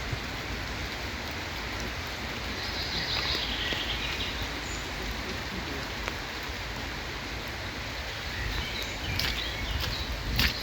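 Steady rain falling, an even hiss, with a few sharp taps near the end.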